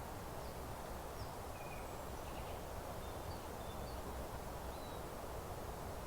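Small songbirds giving faint, scattered short chirps and brief high whistles over a steady rushing background noise.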